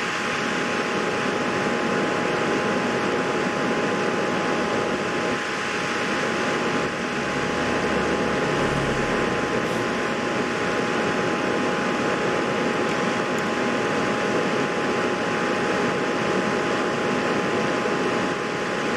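A fan running with a steady whirring hiss and two faint steady tones, unchanged throughout.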